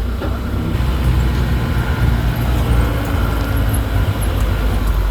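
Engine of a safari tour vehicle running as it drives, a steady low rumble.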